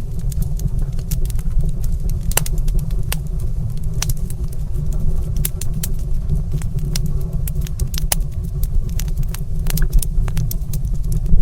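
Wood fire in a stone fireplace crackling, with frequent irregular sharp pops and snaps over a steady low rumble of the burning fire.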